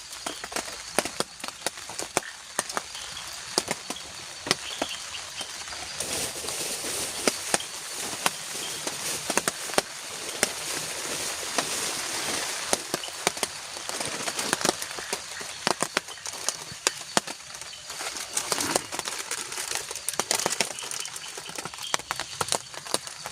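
Rain falling on a shelter roof: a steady hiss with many irregular drop ticks, the rain getting heavier about six seconds in.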